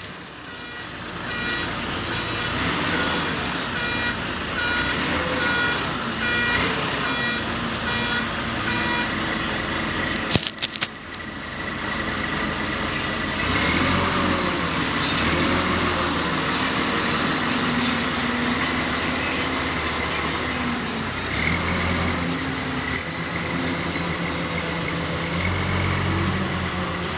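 Heavy diesel machinery running, its engine pitch rising and falling, with a backup alarm beeping about every 0.7 seconds through the first third. A brief burst of clicks comes about ten seconds in.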